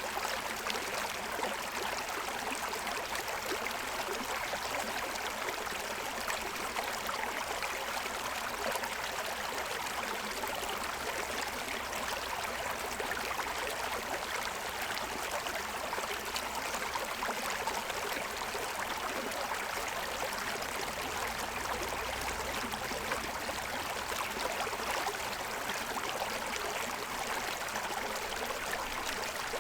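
Forest stream running over the stones of its bed, a steady rush of water with small gurgles.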